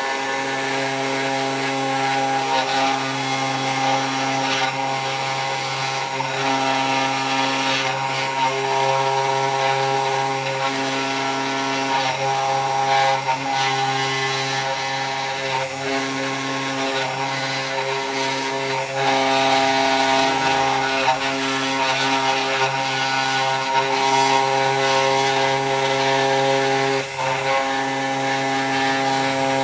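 CNC 3018 Pro desktop router's spindle running steadily while its bit cuts into wood, carving a cheeseboard. It makes a hum of several steady tones over a rasping cutting noise, which shifts in level every few seconds as the cut changes.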